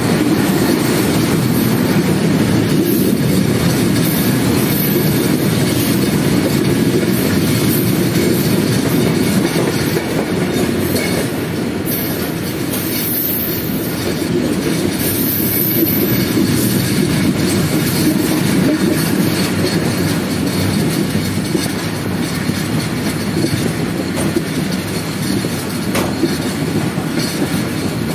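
Passenger train running along the track, heard from aboard a moving carriage: a steady rumble and rattle of wheels on rails.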